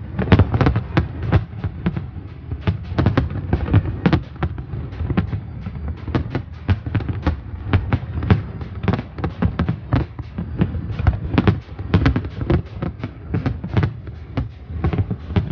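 Fireworks display: aerial shells bursting in a rapid, unbroken string of bangs and crackles over low booms.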